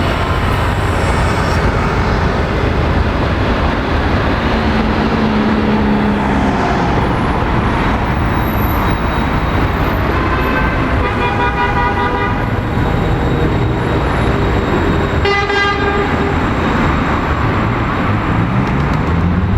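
Busy city road traffic running steadily, with a vehicle horn sounding for about a second and a half just past the middle and a second, shorter horn toot a few seconds later.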